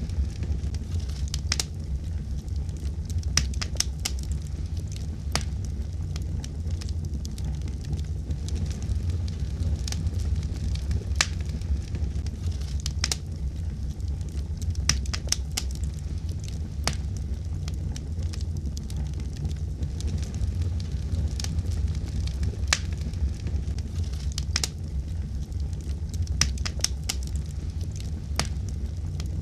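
Wood fire crackling in a fireplace: a steady low rumble of flames with sharp pops and snaps at irregular intervals.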